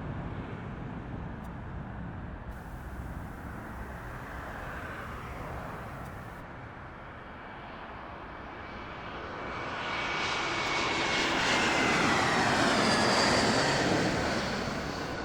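Jet airliner's engines growing louder as it passes, with a whine that glides down in pitch, then easing off near the end.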